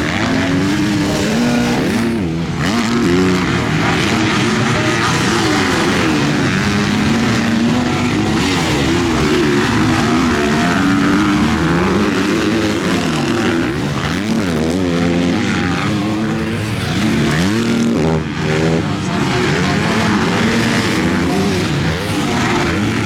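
Several MX2 motocross bikes racing together, their engines revving up and down over and over as riders accelerate, shift and back off.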